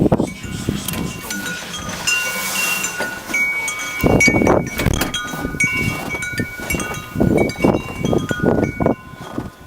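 Wind chimes ringing in gusty blizzard wind, with several pitched tones struck again and again and left to ring. Gusts of wind rumble on the microphone in surges, strongest about four seconds in and again from about seven to nine seconds.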